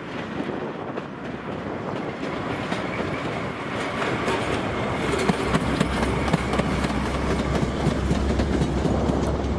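A train passing close by, its wheels clicking over the rail joints with a low rumble, growing louder about halfway through.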